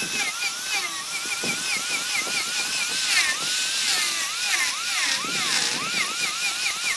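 A small high-speed power tool's motor whining, its pitch dipping and rising again and again as the load on it changes.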